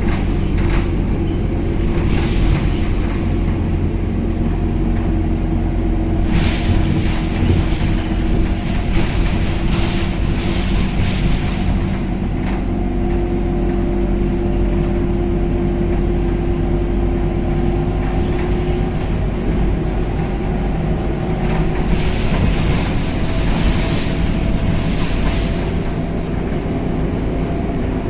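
Scania K270UB city bus running under way, heard from inside the passenger cabin: a steady low engine drone whose tones shift slowly in pitch as the speed changes, with louder hissy surges of noise every few seconds.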